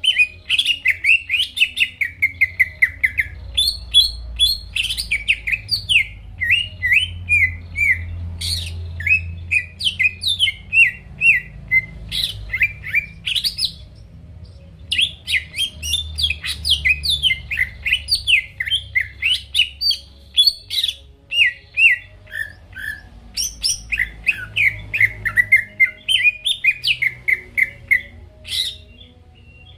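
Cucak ijo (greater green leafbird) singing in full voice: fast, unbroken strings of sharp, falling chirped notes, with a brief pause about halfway through.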